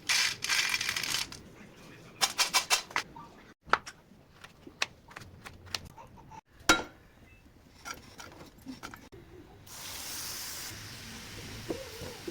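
Kitchen sounds of peanut chikki being made: a noisy rattle, then a run of sharp clicks and taps from ingredients and utensils, broken by sudden cuts. A steady hiss comes in about ten seconds in.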